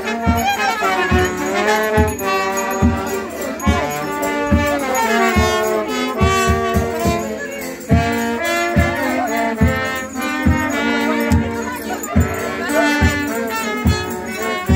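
A small band playing a lively folk tune on trumpets or other brass, over a steady drum beat, with bells jingling.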